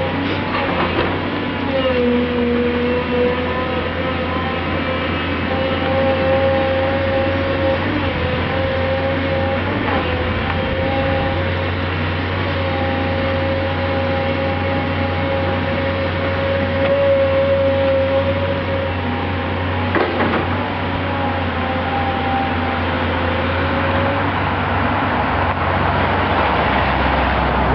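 Heavy earthmoving machinery, excavators and dump trucks, working: a steady low diesel rumble under a whining tone that wavers slightly in pitch and fades near the end, with a few sharp knocks.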